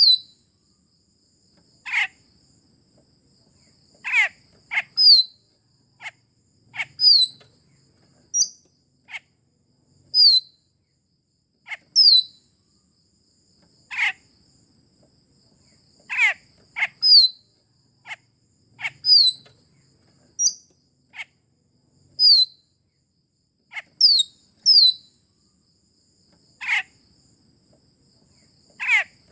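Lure recording of the raja perling, a Sulawesi bird: short, sharp calls sweeping down in pitch, repeated every one to two seconds, some in quick pairs. A steady high-pitched trill runs beneath them.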